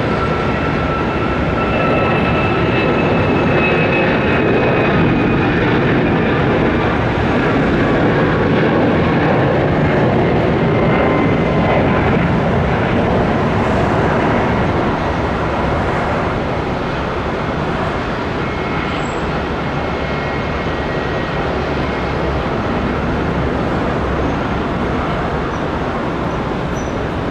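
Boeing 737-8 MAX's CFM LEAP-1B turbofans at take-off thrust: a loud, steady jet roar with a few faint whining tones in the first few seconds, easing slightly in loudness about halfway through.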